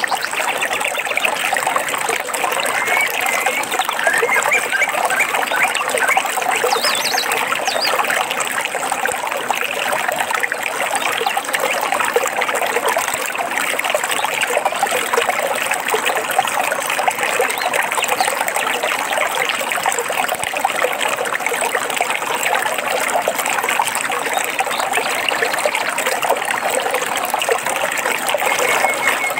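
A small stream trickling and babbling steadily, with a few faint bird chirps now and then.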